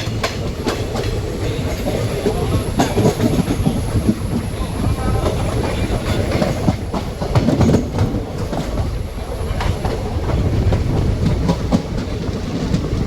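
Indian Railways train running along the track: a steady low rumble with irregular clattering clicks from the wheels over the rails.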